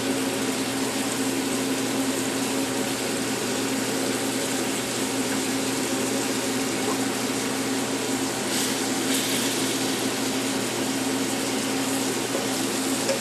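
Liver sizzling steadily as it sautés in butter fat in a hot frying pan, over the constant hum of a fan.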